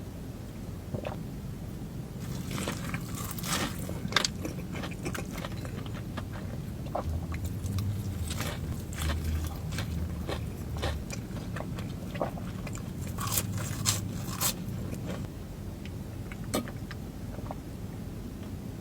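A person biting and chewing crunchy food close to the microphone, with many sharp crackling crunches from about two seconds in until near the end.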